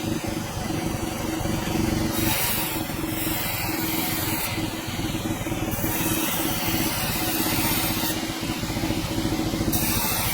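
Sawmill machinery running with a steady hum, and a high hiss that starts and stops several times.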